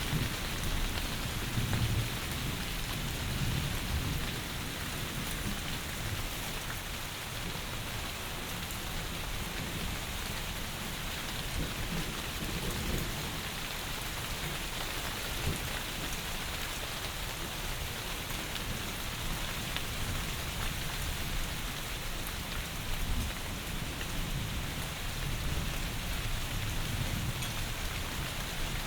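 Heavy rain falling steadily, with low rumbles of thunder now and then, swelling near the start and again after about twenty seconds.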